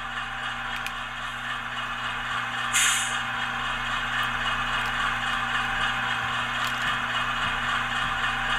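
HO-scale AC4400CW model's LokSound decoder playing the GE diesel idle sound through its small speaker, a steady hum. About three seconds in a short, sharp air hiss bursts out, then a softer steady hiss runs on under the idle; it was triggered with F13, the air dryer function, though the operator is not sure that is what it is.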